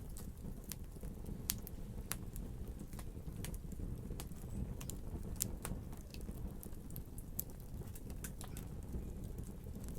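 Wood fire crackling: a steady low rumble of burning with irregular sharp pops and snaps, several each second.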